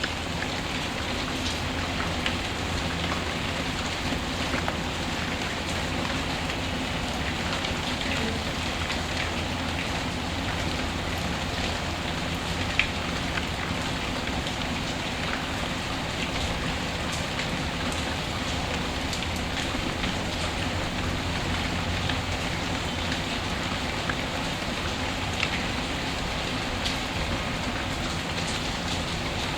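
Steady rain, mixed with a crackling fireplace: an even hiss of rainfall with scattered small clicks and crackles, and one sharper pop about 13 seconds in.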